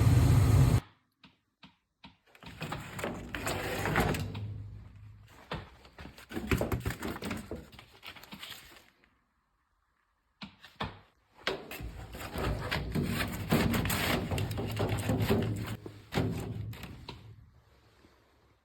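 A steady low hum stops abruptly less than a second in. It is followed by irregular knocking, clattering and scraping of things being handled, in two long stretches with a short pause between them.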